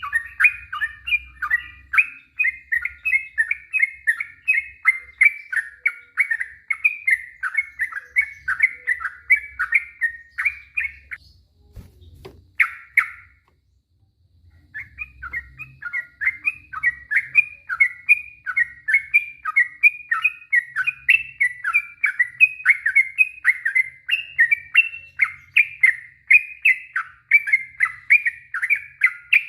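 Trucuk (yellow-vented bulbul) singing a long, rapid run of chirping notes, several a second, with a pause of about three seconds around the middle before the run starts again.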